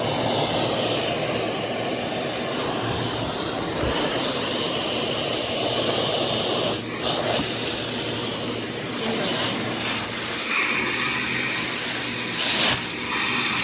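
Vacuum cleaner running steadily while vacuuming couch cushions, with a few brief knocks near the end.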